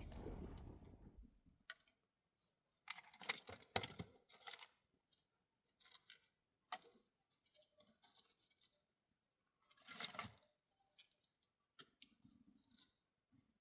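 Mostly near silence with faint, scattered clicks and rustling handling noises, denser about three to four and a half seconds in and again around ten seconds. A low wind rush on the microphone fades out in the first second or so.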